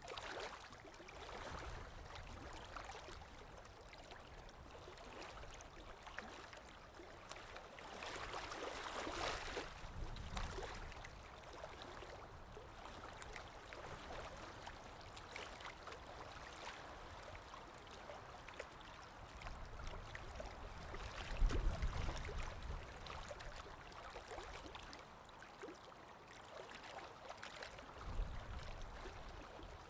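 Small stream flowing and trickling, with a few low rumbles coming and going over it.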